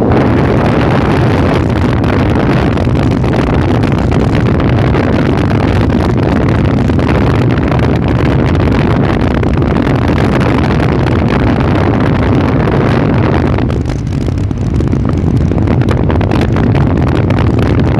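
Motorcycle riding at road speed: steady engine and road noise mixed with wind rushing over the microphone, easing slightly about fourteen seconds in.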